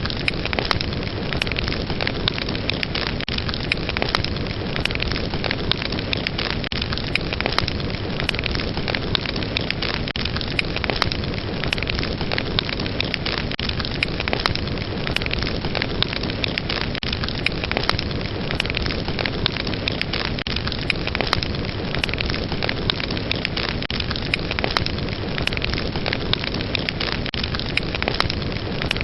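Fire burning with dense, continuous crackling and popping over a steady rushing hiss.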